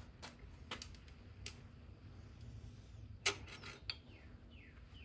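Light clicks and clinks of small metal engine parts being handled. The loudest is a sharp click about three seconds in, followed by a quick run of smaller clicks.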